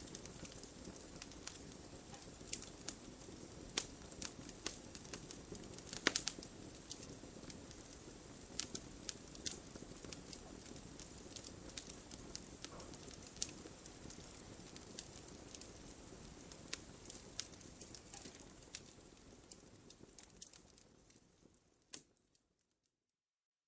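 Wood fire crackling: a stream of sharp pops and snaps over a soft low hiss, the loudest pop about six seconds in. The sound fades out near the end and cuts to silence.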